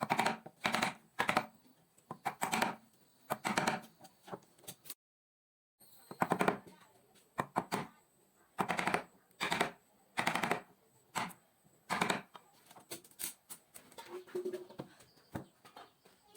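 Repeated short bursts of rapid, sharp clicking knocks, roughly one burst a second, broken by a brief silence about five seconds in.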